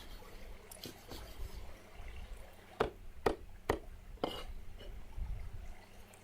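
Four sharp knocks, about half a second apart, partway through, over a faint steady low hum.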